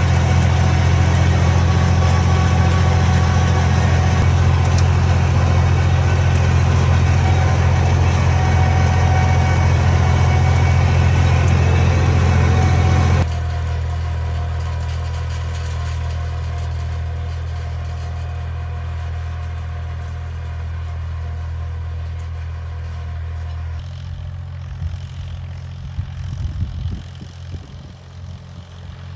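Tractor engine idling steadily, loud at first. About thirteen seconds in it drops abruptly to a quieter idle, and near the end irregular low rumbles come over it.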